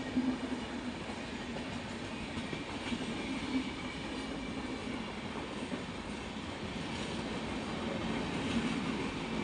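Express train passenger coaches passing at speed: steady rolling noise and rattle of steel wheels on the rails, with faint high ringing tones from the wheels.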